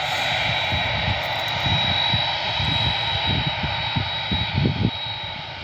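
Star Air cargo jet's engines at take-off thrust: a loud, steady rushing noise with a high whine over it, easing slightly near the end.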